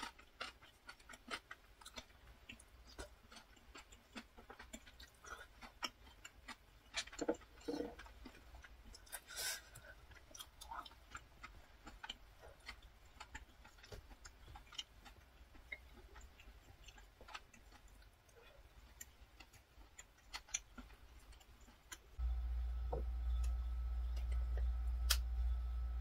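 Close-up eating sounds: chewing on spicy whelk noodles, with many small clicks of chopsticks and a spoon against a ceramic bowl, and a few louder mouth sounds around seven to ten seconds in. About 22 seconds in, the sound changes suddenly to a steady low hum.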